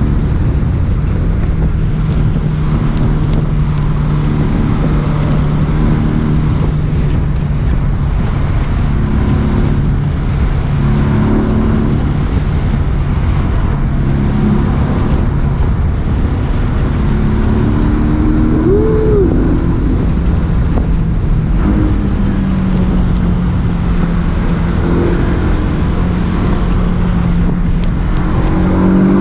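Porsche 718 S's turbocharged 2.5-litre flat-four engine running under way over road and wind noise. Its note holds mostly steady, shifts in pitch a few times, and briefly rises and falls about two-thirds of the way through.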